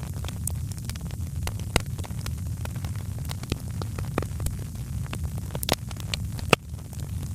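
Fireplace fire crackling: irregular sharp pops and snaps over a steady low rumble, with one louder pop near the end.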